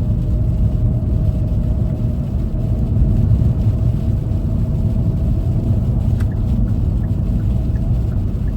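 Steady low rumble of a front-wheel-drive car heard from inside the cabin while driving at highway speed: engine and tyres on a snowy road, with a faint steady hum running under it.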